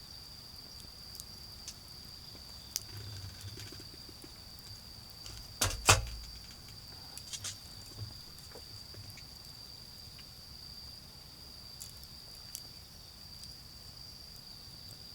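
A steady, high-pitched trill of autumn insects, with scattered small ticks and crackles from a charcoal fire and one loud, sharp pop about six seconds in.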